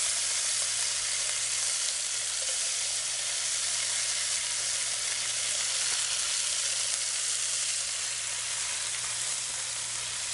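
Diced red potatoes and onions sizzling in hot bacon grease in two cast iron skillets: a steady frying hiss that holds at a constant level.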